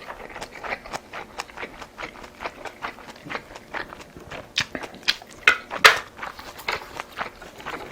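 Close-miked chewing and lip-smacking of food, with quick wet clicks several times a second and a few louder bursts just past the middle.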